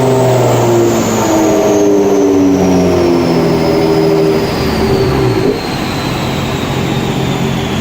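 Nissan GT-R R35's twin-turbo V6, with a catless downpipe and straight-pipe exhaust, running loud on a dyno as it winds down from a run. The engine note shifts in steps, drops and settles lower about five and a half seconds in, while a thin high whine falls slowly in pitch.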